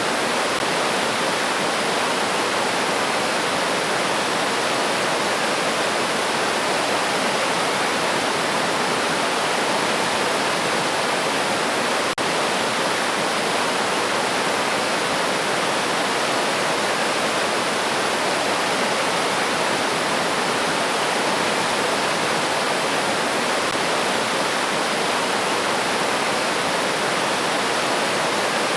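River water flowing steadily, a continuous even rush, with a single brief click about twelve seconds in.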